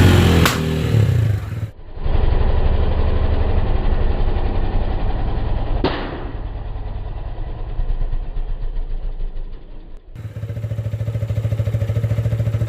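Motorcycle engine running through its exhaust in several cut-together takes, mostly idling with a steady pulse. Sharp snaps come about half a second in and again about six seconds in.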